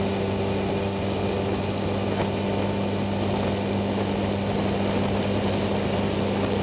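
Boat's outboard motor running at a steady speed while under way: an even drone that holds one pitch throughout.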